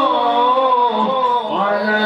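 A man's voice reciting the Quran in the melodic tilawah style, holding a long ornamented note that moves to a new pitch about one and a half seconds in.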